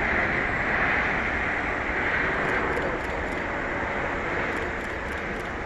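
Jet engines of a landing Boeing 787-9 airliner: a steady rushing noise, strongest in the upper-middle range, easing slightly toward the end.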